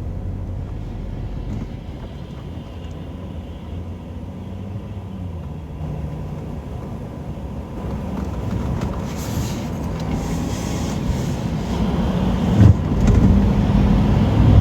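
Car engine and road noise heard from inside a moving car, a steady low hum that grows louder over the last few seconds, with one short knock near the end.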